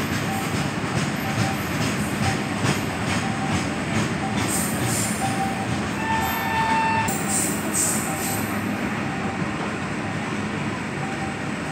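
Indian Railways goods train of covered wagons rolling past: a steady rumble and clatter of wheels on the rails. A brief high tone comes about six seconds in.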